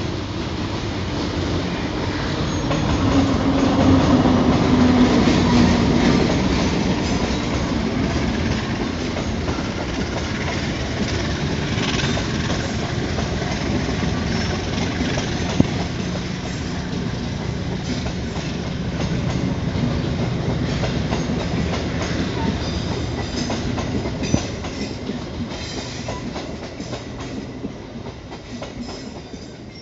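Passenger train passing close by, hauled by a diesel locomotive. The locomotive's engine note is loudest a few seconds in, then the coaches follow with a steady wheel clatter and clicks over the rail joints, fading near the end.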